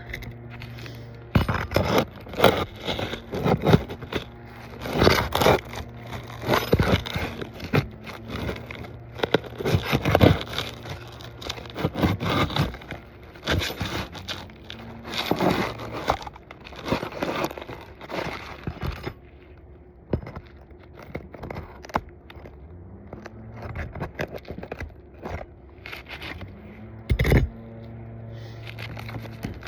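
A metal roof snake scraping and knocking against asphalt shingles in repeated irregular strokes as it is worked under a shingle to pull a nail. The strokes die away about two-thirds of the way through, leaving a steady low hum and one more knock near the end.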